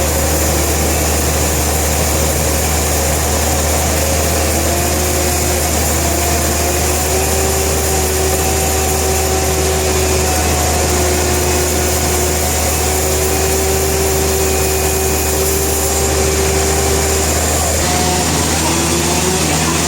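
Sawmill machinery running steadily, a loud even hum under a wavering whine that changes about eighteen seconds in.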